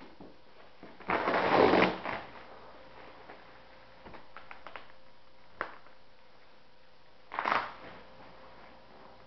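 Packing material being rustled and handled while a kit is unpacked: a loud rustle about a second in lasting about a second, a few light clicks and taps in the middle, and another short rustle near the end.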